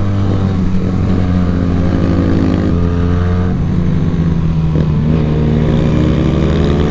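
Benelli 300 motorcycle's parallel-twin engine running under way at a fairly steady speed, its pitch climbing in the last couple of seconds.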